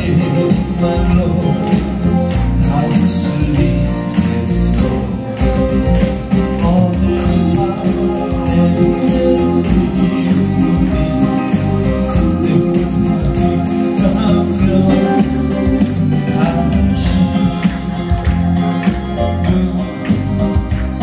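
A male singer singing live over a recorded backing track.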